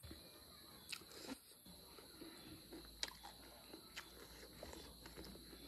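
Faint chewing and mouth smacks of a person eating boiled goat meat and rice with his hands, with a few short, sharp clicks scattered through.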